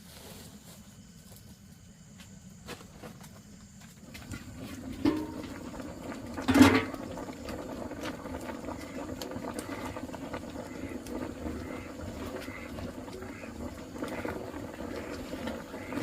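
Animal noises begin about four seconds in over a steady, noisy background, with one loud, sharp sound at about six and a half seconds.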